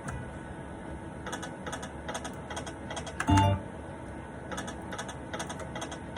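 All Aboard Go West slot machine's game sounds: a run of quick clicks, about three or four a second, with one louder chime-and-thump about three seconds in.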